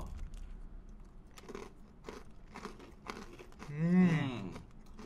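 Crunchy cheddar-cheese-flavoured pretzel snack being chewed close to the microphone, a run of short crisp crunches. A short hummed voice sound about four seconds in.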